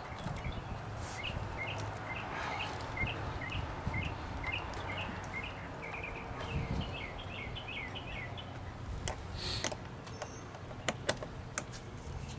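A small bird chirping, a long quick run of short high chirps, over a low wind rumble on the microphone. A few sharp clicks come in the second half.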